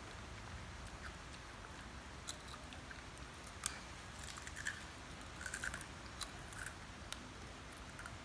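Scattered small clicks and crunches of people eating crunchy snacks, with one sharper click a little before halfway, over a low background hum.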